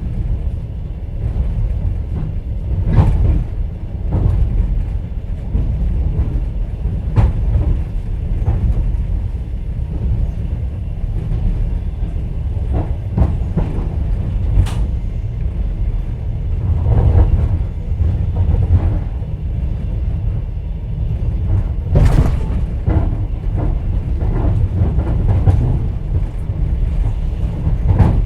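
Inside a moving passenger train's sleeper carriage: a steady low rumble, with the wheels knocking over rail joints in scattered clacks at uneven intervals.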